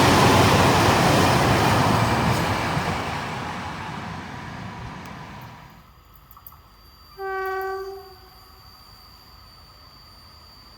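A train passing, its rolling noise fading away over about six seconds. About seven seconds in comes one short horn blast, a single steady tone lasting under a second.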